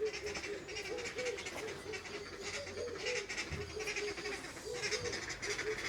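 Pigeons cooing, short low notes repeated again and again, with higher chirping of other birds in the aviary over them.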